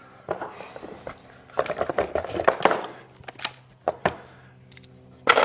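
Tools and fittings being handled on a work platform: a run of clicking and clattering, a few separate sharp clicks, then a louder knock near the end. A faint steady hum sits underneath.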